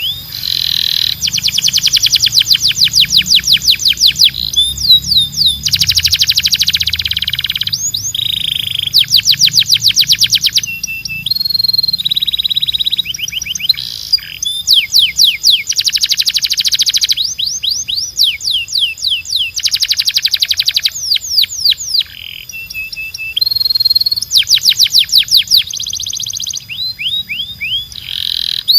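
Domestic canary singing: rapid trills of quick, steeply sliding notes, one phrase after another, broken by short held whistles.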